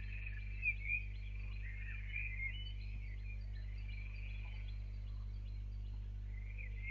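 Small birds singing in quick, overlapping chirps and warbles, busiest at the start and again near the end, over a steady low electrical hum.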